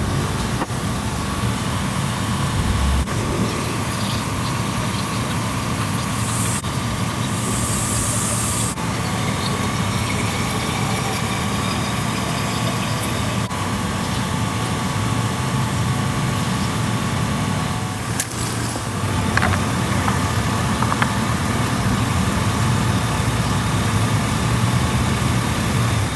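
A car running with steady engine and road noise, heard from inside the vehicle.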